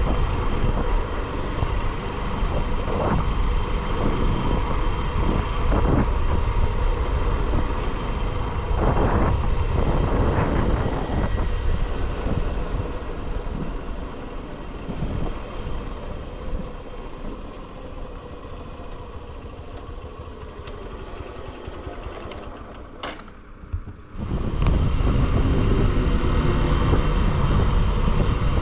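Riding a single-cylinder Bajaj Pulsar motorcycle on the road: engine running with heavy wind and road noise and passing traffic. The noise eases off through the middle, drops away sharply for a moment, then comes back loud near the end.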